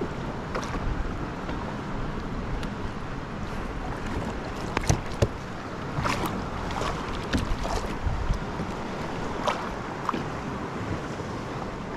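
Wind rushing over the microphone and water lapping against a sit-on-top kayak, with scattered small knocks and clicks from handling on the hull.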